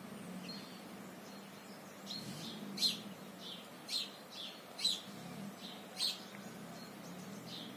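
Small birds chirping at dawn: short high chirps, sparse at first, then sharper calls roughly once a second from about 3 s in, over a faint steady low hum.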